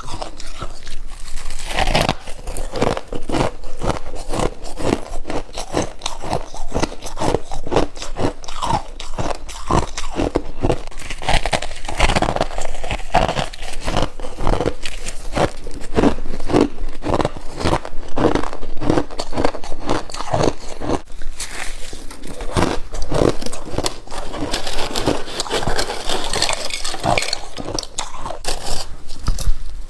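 Freezer frost being bitten and chewed close to the microphone: a steady run of crisp crunches, several a second, without a break.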